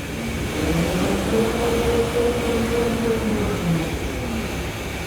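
Automatic pull-out tissue folding machine running with a steady mechanical din. A whine of several tones comes in just after the start, wavers slightly in pitch and fades out near the end.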